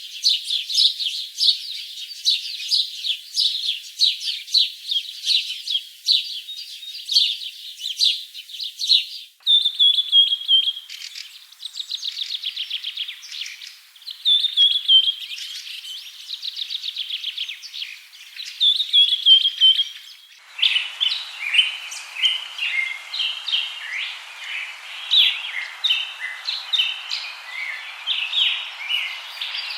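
Songbirds chirping and singing, with runs of rapid repeated trills. About two-thirds of the way through, the sound switches abruptly to a different bird recording with a steady hiss beneath the chirps.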